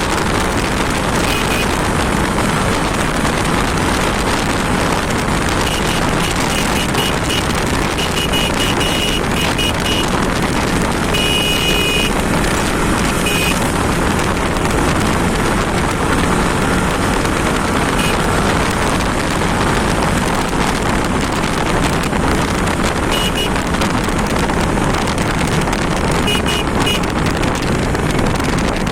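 Steady engine and road noise of a motorcycle ride, with wind buffeting the microphone.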